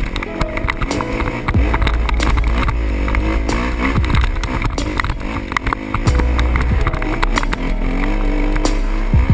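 2013 Kawasaki KX250F dirt bike's single-cylinder four-stroke engine revving up and down over and over, with many short knocks along the way.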